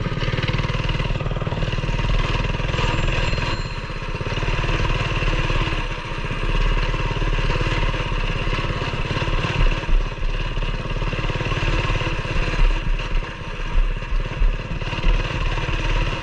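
Coleman BT200X mini bike's single-cylinder engine, fitted with an aftermarket exhaust, running steadily under throttle on a trail ride. Its loudness surges several times in the second half as the throttle is worked.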